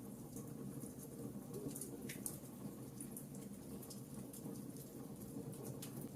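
Burning logs in a fireplace crackling faintly: scattered sharp snaps and pops over a steady low rustle of the fire, with one stronger snap about two seconds in.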